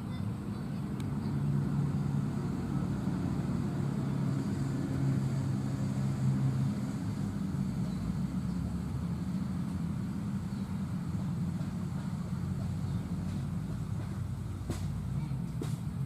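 A motor engine running steadily with a low drone, louder for the first several seconds and then easing off a little.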